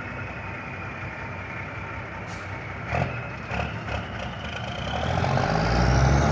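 Diesel engine of a 1991 Kenworth truck running, with a couple of short knocks about three seconds in, then getting louder toward the end as the truck pulls away.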